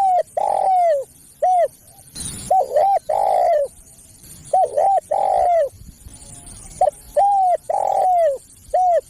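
Spotted dove cooing in its repeated phrase: short coos and one longer coo that falls in pitch, the phrase coming again about every two and a half seconds.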